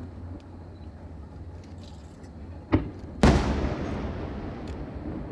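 Two fireworks shells bursting about half a second apart, the second much louder, with a long echoing tail that fades over a couple of seconds. A steady low rumble runs underneath.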